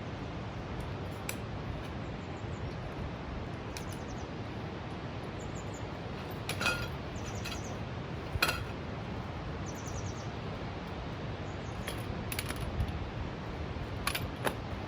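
Light metallic clinks and taps, a handful spread over several seconds, the loudest about two thirds of the way through, over a steady low rushing background; faint short high chirps come between them.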